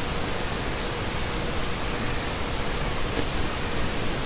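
Steady, even hiss with a faint steady tone underneath; nothing starts, stops or changes.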